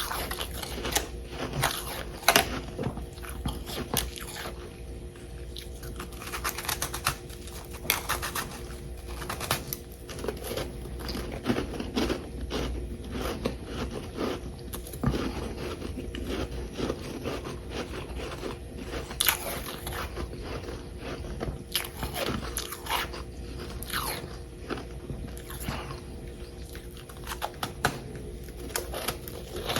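Close biting and chewing of chunks of humidifier frost: many crisp, irregular crunches, some louder bites standing out.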